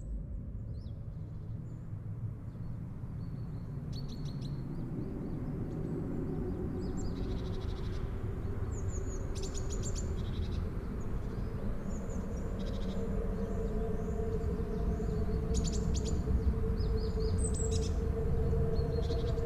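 Birds chirping and trilling in short phrases over a low rumbling background. A sustained low tone swells in from about halfway, and the whole grows gradually louder.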